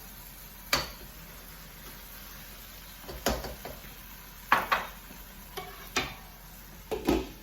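A spoon stirring tomato sauce in a pot and knocking against the pot about six times, over a faint steady sizzle of the simmering stew.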